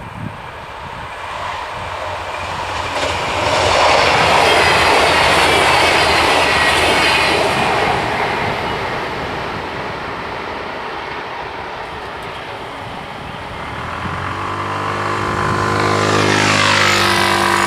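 A LINT 41 diesel multiple unit passing over a level crossing: its running noise swells, is loudest a few seconds in, and slowly fades. Near the end, a road vehicle's engine comes up loudly and passes, its pitch sliding down.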